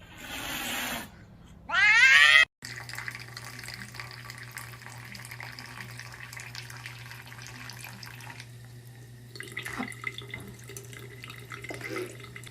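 A cat calls loudly, ending in a long rising yowl about two seconds in. After a sudden cut, a steady low hum with a hiss of running water takes over.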